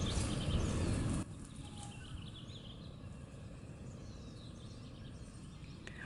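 Faint birds chirping over quiet outdoor ambience. Before that, a louder rushing noise cuts off suddenly about a second in.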